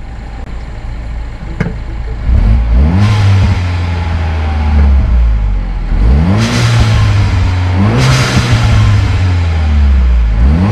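Turbocharged 1.6-litre four-cylinder of a 2012 Mini Cooper S Countryman with a catless downpipe, accelerating hard through the gears from low speed, engine note rising and dropping at each shift. Its Forge atmospheric blow-off valve vents with a hissing whoosh when the throttle closes between shifts.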